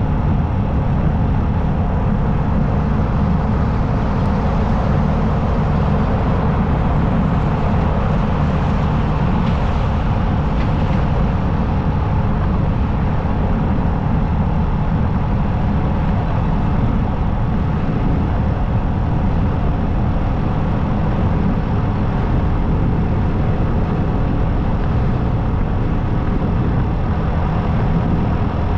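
Motorcycle riding at a steady cruise: the engine runs evenly under a constant rush of wind and road noise, with no change in pace.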